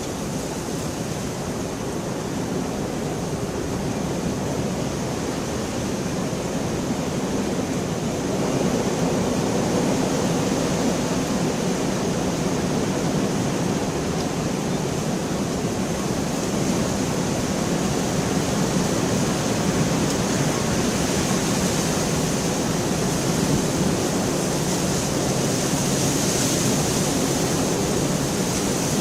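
Steady, dense rainfall, a continuous hiss that grows a little louder about eight seconds in.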